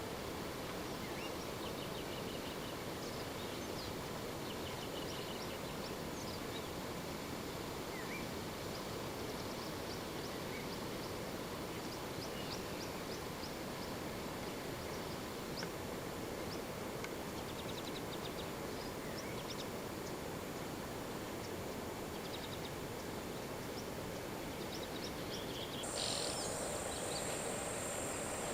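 Natural bush ambience: a steady background hiss with many birds chirping and calling. Near the end a high, steady insect buzz, from crickets or cicadas, comes in and the sound gets a little louder.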